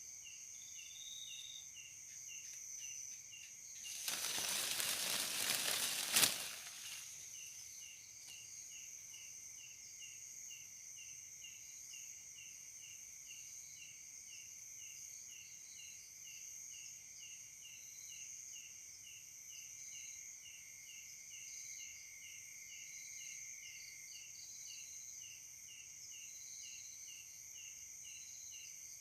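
Night insects chirping steadily in high-pitched, evenly repeating pulses. About four seconds in there is a two-second burst of rustling noise that ends in a sharp click.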